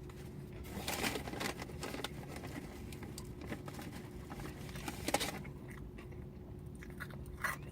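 A person chewing and crunching food close to the microphone, with many small wet mouth clicks, thick for the first five seconds or so and sparser after. A faint steady hum runs underneath.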